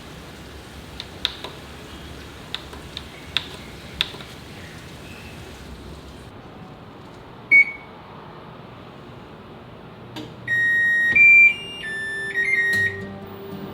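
A washing machine's electronic control panel: several light clicks, then a single beep, then a short tune of stepped electronic beeps, the loudest sound here.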